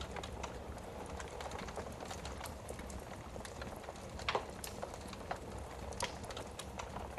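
Wood fire in a fireplace crackling, with irregular small snaps and a louder pop about four seconds in and another about six seconds in, over a low steady hum.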